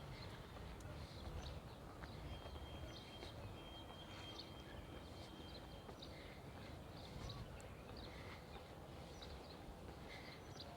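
Faint outdoor ambience: scattered short bird chirps over a steady low rumble, with a thin high steady tone lasting a few seconds from about two seconds in.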